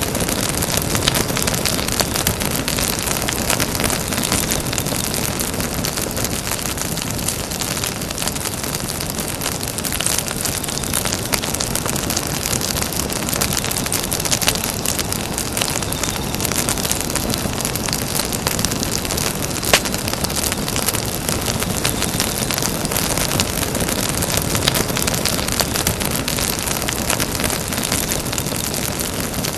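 Campfire burning: a steady hiss dotted with frequent crackles, and one sharp pop about twenty seconds in.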